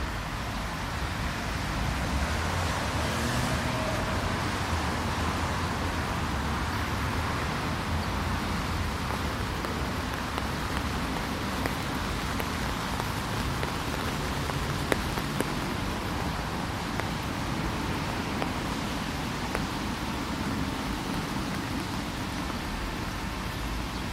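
Steady hiss of light drizzling rain, over a low rumble of distant road traffic. A couple of sharp taps stand out about halfway through.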